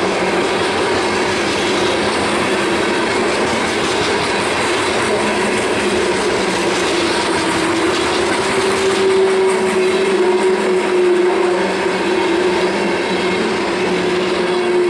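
Loaded coal hopper cars of a freight train rolling past close by: the steady rumble and clatter of steel wheels on the rails, with a steady whine running through it.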